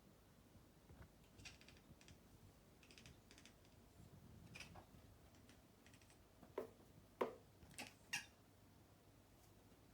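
Three-month-old Bengal kitten giving four short, sharp cries in quick succession in the second half, the odd noise it makes while hunting a fly. Faint light clicks come before the cries.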